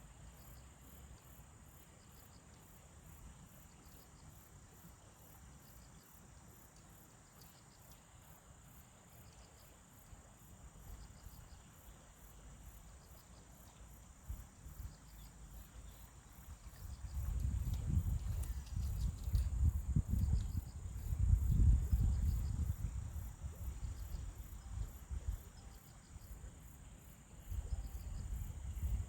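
Insects chirping steadily: a high, even buzz with a pulsing chirp about twice a second. From a little past halfway, a louder, uneven low rumble comes in under it.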